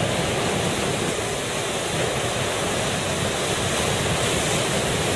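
Ocean surf breaking, a steady rushing noise with no distinct crashes.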